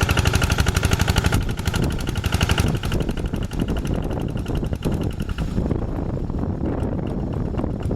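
Two-wheel hand tractor's diesel engine running under work, a rapid even chugging. About five and a half seconds in, its sharper high clatter falls away and the engine runs on with a duller note.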